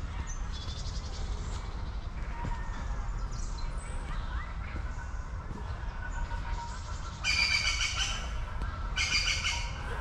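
Songbirds singing: a few faint chirps, then two louder bursts of rapid, repeated high notes about seven and nine seconds in, each about a second long, over a steady low rumble.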